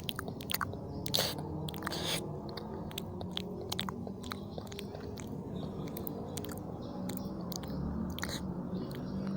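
Close-up chewing of spicy fried instant noodles, with many sharp wet mouth clicks and smacks between the chews.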